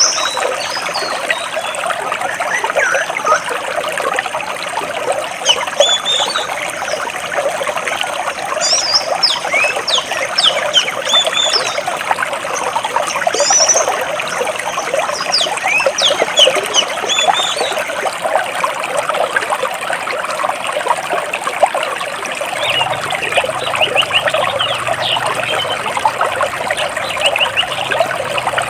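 Stream water rushing and splashing between large rocks, with small birds chirping in short, high calls over it. A faint low hum joins about three quarters of the way through.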